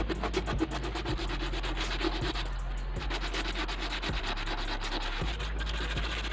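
Rust being sanded or scrubbed off a steel scissor blade: fast, even rasping strokes that keep going without a break.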